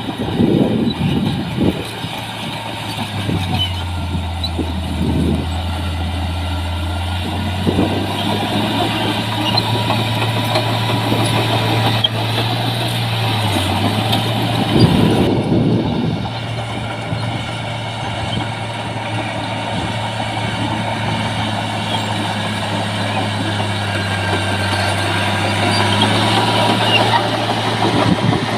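Diesel engines of heavy earthmoving machinery running under load: a steady low drone that shifts in pitch now and then, with a few louder surges, one near the start and one about halfway through.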